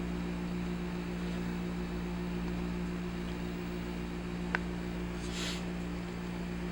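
Steady low room hum, with a single sharp click about four and a half seconds in and a brief rustle about a second later.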